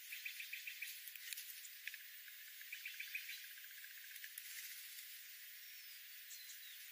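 Faint wildlife chirping over a steady hiss: two quick runs of short, high, evenly repeated chirps, about seven a second, and a short falling whistle near the end.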